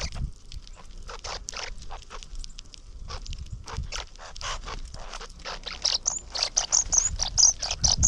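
Small backyard birds: a dense run of quick clicks and scratches, with short high chirps that come thick in the last two seconds.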